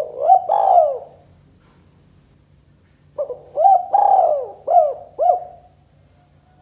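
Spotted dove (tekukur) cooing: a short pair of coos at the start, then after a pause a longer phrase of about five coos.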